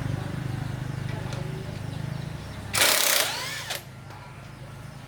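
A small motor hums steadily with a fast, even pulse. About three seconds in, a loud hiss lasts about a second.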